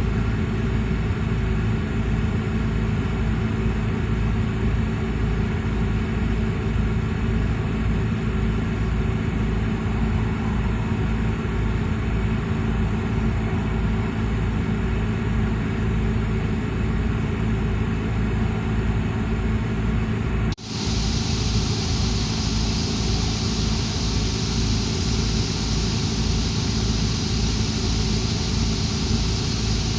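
2004 Chevy Colorado's 3.5-litre inline-five engine running steadily, now running pretty decent with its temperature-sensor wiring fixed. There is a brief dropout about two-thirds of the way through.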